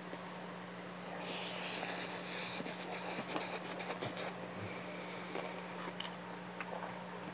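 Close-up chewing of a mouthful of food, with wet mouth clicks and crackling for about three seconds starting about a second in, then softer chewing with a few scattered clicks. A steady low hum runs underneath.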